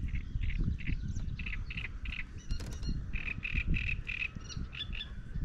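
A bird calling in quick runs of short, repeated notes, about three to four a second, over a low steady rumble.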